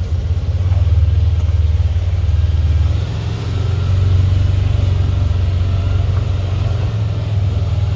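A farm vehicle's engine running steadily while driving, a continuous low drone with a brief dip about three seconds in.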